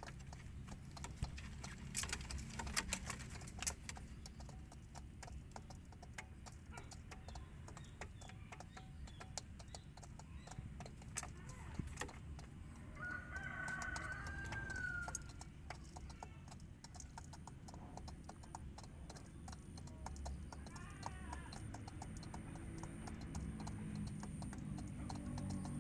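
A bird calling: one long, nearly level call of about two seconds near the middle, and a shorter call about eight seconds later, over frequent small clicks and a low hum.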